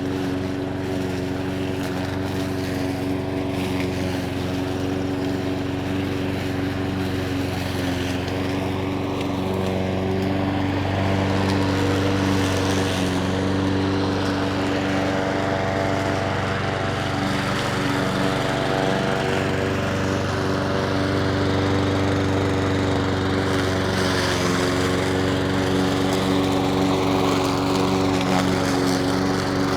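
Petrol lawn mower's small engine running steadily, its pitch shifting slightly now and then under changing load.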